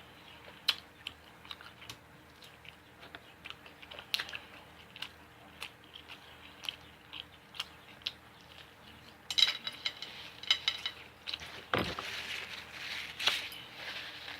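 A person chewing and eating close to the microphone, with many short, sharp mouth clicks and smacks that come thicker from about nine seconds in.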